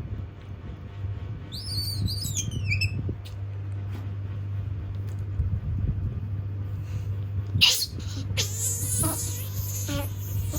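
Small monkey giving a high, squeaky call that falls in pitch about a second and a half in, then a run of loud, high, scratchy squeals and rustles in the last three seconds, over a steady low hum.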